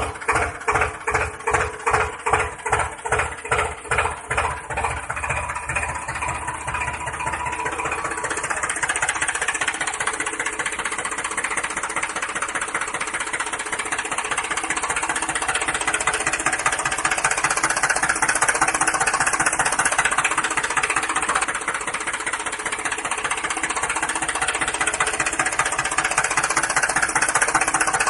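Tractor engine chugging in slow, even beats of about two and a half a second, quickening over the first eight seconds into a fast, steady run.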